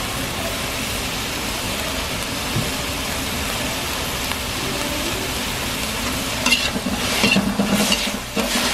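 Chicken pieces sizzling in hot oil in a metal wok, a steady hiss. From about six and a half seconds in, a metal utensil scrapes and clinks against the wok as the chicken is stirred.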